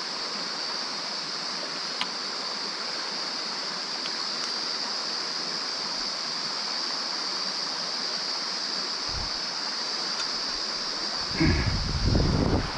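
Mountain stream flowing steadily over rocks, with a constant high-pitched hiss above the water sound. Near the end comes about a second of low, loud rumbling.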